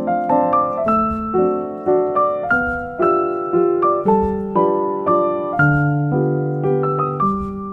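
Background piano music: a gentle melody of struck notes over sustained lower chords.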